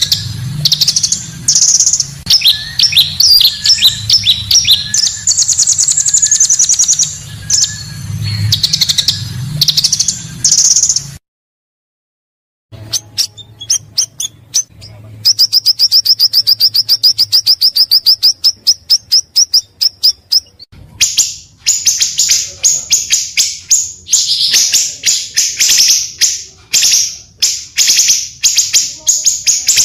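Pancawarna songbird singing: bursts of rapid high chirps and whistled phrases, cut by a brief silent gap about eleven seconds in. In the middle comes a long, even trill of quickly repeated notes, followed by more dense chirping. A low hum runs under the first part.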